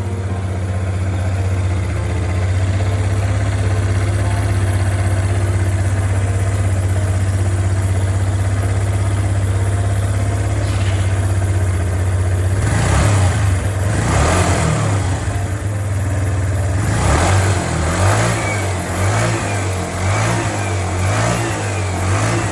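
Small moped scooter engine, just rebuilt, running: a steady idle for about half the time, then several blips of the throttle, each revving up and dropping back.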